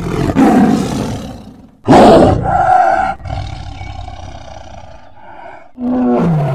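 Tiger roaring and snarling in loud bouts. The loudest starts abruptly about two seconds in and trails off slowly.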